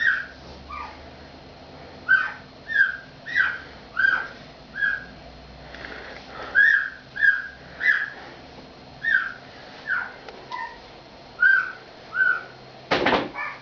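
A dog whining in a series of short, high whines, some two a second, with a louder rustling or huffing burst near the end.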